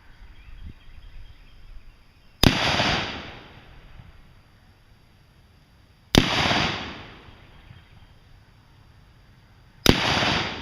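Three single gunshots about four seconds apart, each a sharp crack followed by about a second of fading noise.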